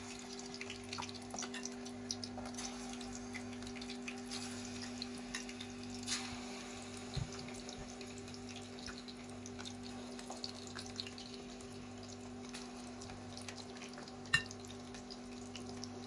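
Chicken wings frying in hot oil: a steady sizzle with scattered small crackles over a steady low hum, and one sharp click near the end.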